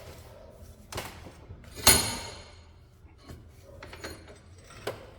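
Metal tools and parts knocking together during suspension bushing work: a light knock, then one loud ringing metallic clank about two seconds in, and another light knock near the end.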